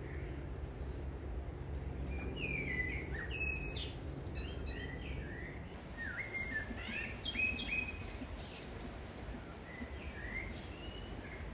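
Birds chirping, a series of short high calls and quick sweeps in pitch, over a steady low background noise.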